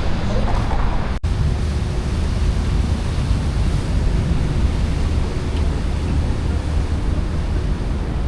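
Wind buffeting the microphone over a steady rumble of road traffic on the bridge. The sound cuts out for an instant about a second in.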